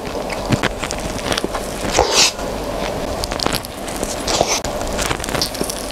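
Mouth sounds of eating a large hotdog, soft bread and sausage: wet chewing and lip smacks with irregular small clicks, and a few louder smacks, the clearest about two seconds in and past four seconds.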